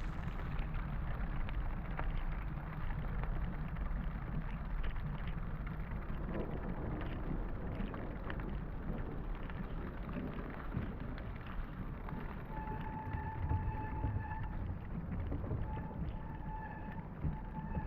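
Steady heavy rain falling, with a deep rumble underneath and scattered drip-like clicks. From about two-thirds of the way in, a steady pitched tone sounds on and off several times.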